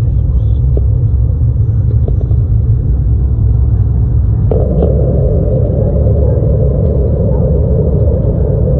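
Airliner cabin noise from inside the cabin: a loud, steady low rumble of the engines and airframe. About halfway through, a louder, higher layer comes in suddenly and holds.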